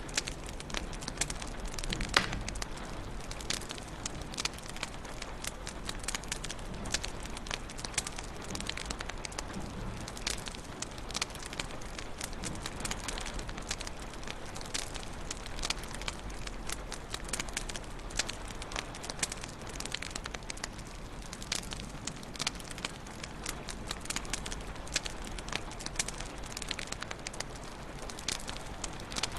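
Wood fire crackling in a fireplace: a steady soft rush with frequent sharp snaps and pops, one louder pop about two seconds in.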